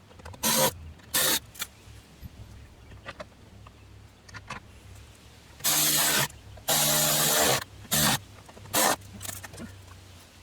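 Cordless drill/driver run in short bursts, driving screws into the door during reassembly: two quick bursts, then two longer runs with a pitched motor whine, then two more quick bursts.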